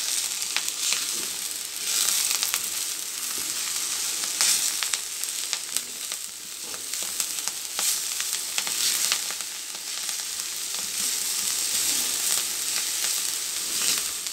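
Ponnaganti greens and soaked lentils sizzling in hot oil in a kadai while a metal spatula stirs and scrapes the pan, giving many short scrapes and clicks over a steady hiss.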